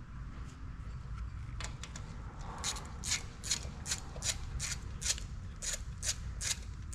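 Repeated short, sharp strokes of a hand tool working on the engine, about two and a half a second, starting a few seconds in over a low steady hum.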